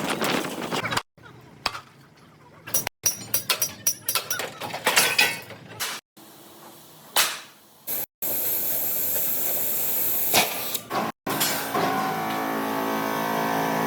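Quick-cut series of workshop sounds: sharp clicks and knocks, and a hissing stretch, each broken off abruptly. About twelve seconds in, a vehicle engine starts running steadily.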